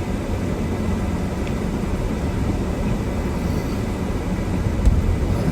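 Steady low rumble of a car creeping down a steep snowy hill, heard from inside the cabin, with a couple of low bumps near the end.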